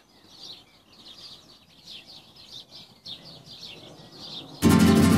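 Birds chirping: a steady series of short, high, falling chirps. Near the end, loud music with violin and guitar starts suddenly over them.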